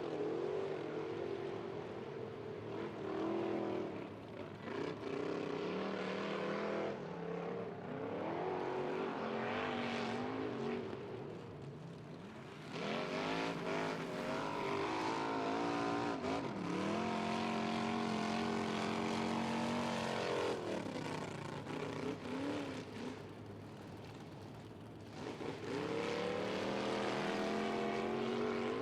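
Off-road race truck's engine revving hard, its pitch climbing, holding high for a few seconds and dropping off again several times as the driver works the throttle.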